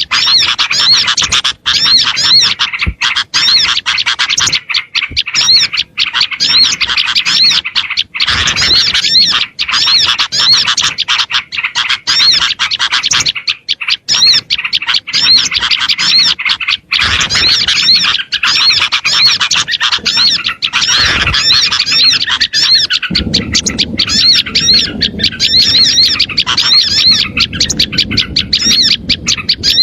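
Dense, agitated chorus of small songbirds chattering and chirping over one another in quick repeated rising-and-falling notes, a small-bird lure call. About three quarters of the way in, a low noisy rumble joins underneath.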